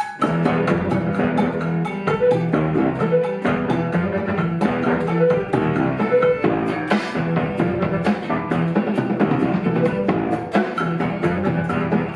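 Live instrumental ensemble music: plucked strings and bass over percussion, playing a busy repeating rhythmic figure.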